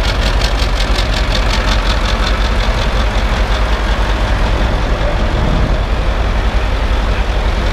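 Three-wheeled motorcycle's Caterpillar eight-cylinder diesel engine running steadily at idle. A rapid, even clatter is clearest in the first few seconds.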